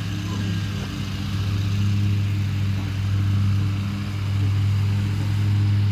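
Lawn mower engine running steadily with an even hum, its loudness swelling and easing slightly as it moves about.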